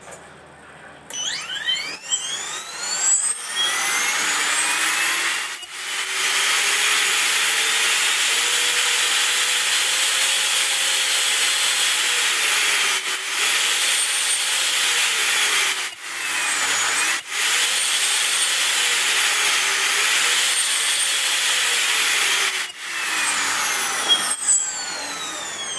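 T-Rex 500 electric RC helicopter's brushless motor and rotor spooling up with a rising whine, then running at a steady high whine. Several brief dropouts and dips in pitch recover at once, the Castle Creations speed controller's auto-bailout bringing the headspeed straight back. It winds down with a falling whine near the end.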